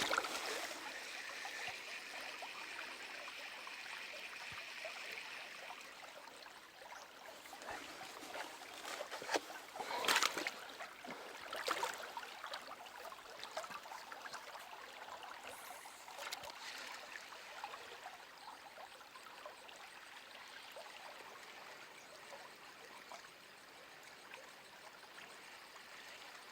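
Stream water running steadily, with a few brief louder noises about ten and twelve seconds in.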